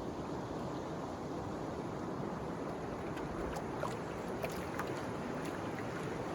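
Steady wind and water noise around a canoe out on a river, with a few faint clicks about halfway through.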